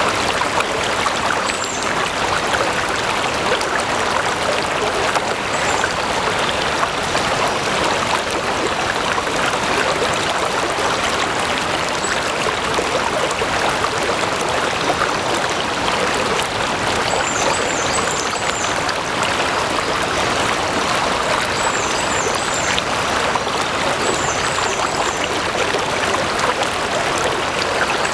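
A stream flowing steadily, a constant rushing and burbling of water. A few runs of three or four short, high chirps come in over it, mostly in the second half.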